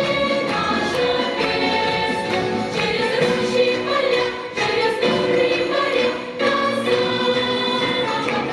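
Choir singing a song in unison, with held notes.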